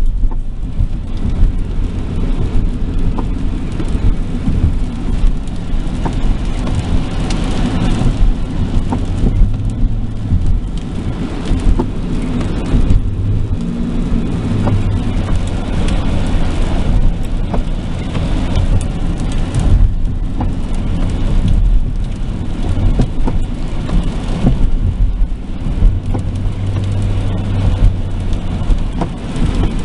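Steady low rumble of a car's engine and tyres heard from inside the moving car, with rain hissing on the car.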